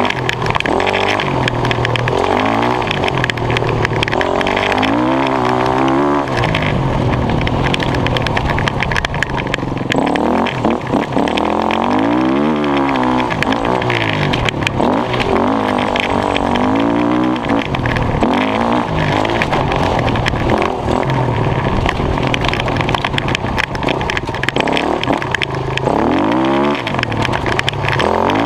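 Dirt bike engine being ridden, its pitch climbing and dropping again and again as the rider works the throttle and gears, over a steady rushing noise.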